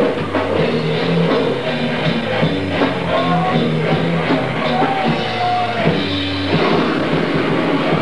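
Loud grindcore band music: drum kit, bass and guitar playing together. The low bass notes drop out and the texture changes about six and a half seconds in.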